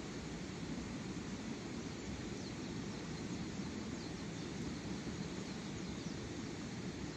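Steady outdoor rushing noise, like wind or flowing water, with a few faint bird chirps about two to four seconds in.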